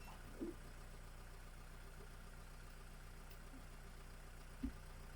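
A steady low engine hum at idle, with two short, faint sounds about half a second in and near the end.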